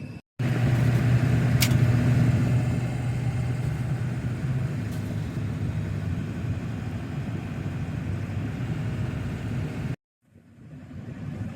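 Motor vehicle driving, a loud steady engine and road rumble with a low hum held through the first few seconds. There is a brief tick less than two seconds in. The sound cuts out abruptly just after the start and again near the end, then returns quieter.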